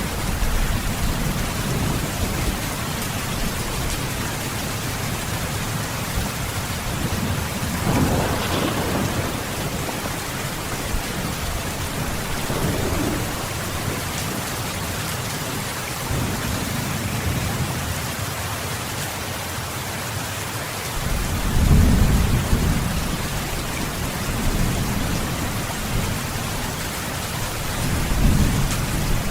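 Steady heavy rain with rolls of distant thunder swelling under it: one about a quarter of the way in, the loudest about two-thirds through, and another near the end.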